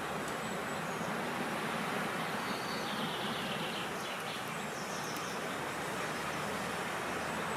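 Steady rush of wind, with a few faint bird chirps about three and five seconds in.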